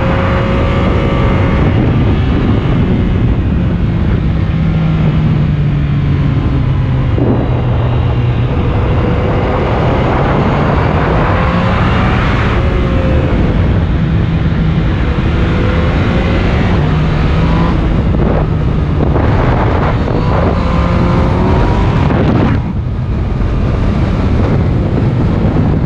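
Yamaha MT naked motorcycle engine pulling hard through the gears, its pitch rising and dropping again and again at each shift. Heavy wind buffets the microphone throughout.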